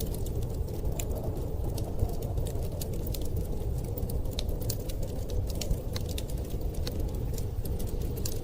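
Wood fire crackling with frequent small sharp pops over a steady low rumble of storm wind.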